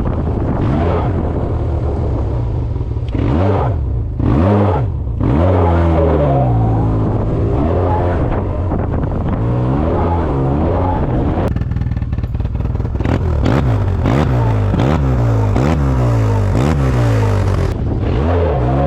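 Yamaha TMAX 530 maxi-scooter's parallel-twin engine revved over and over, its pitch rising and falling every second or so. This is the noise on acceleration that the owner thinks comes from a slipping clutch.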